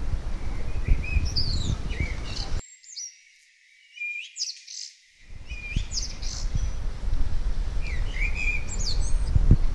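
Birds chirping and giving short whistled calls, many brief notes sliding up and down, over a low rumbling background noise. The low rumble drops out abruptly for about two seconds just before the middle, leaving the birdsong on its own, then returns.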